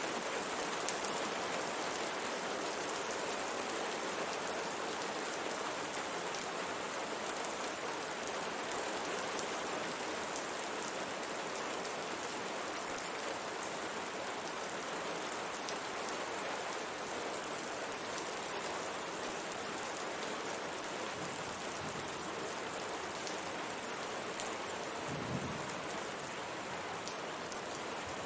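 Steady rain beating on a window pane, a dense patter with scattered sharper drop ticks and a brief low rumble about three-quarters of the way through.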